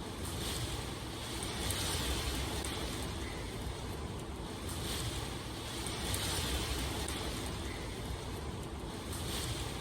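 Steady rain ambience, a constant hiss over a low rumble, the hiss swelling and easing every four to five seconds.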